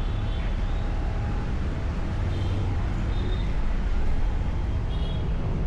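Steady low rumble of a vehicle on the move, engine and road noise, with a few short high-pitched tones about two and a half, three and five seconds in.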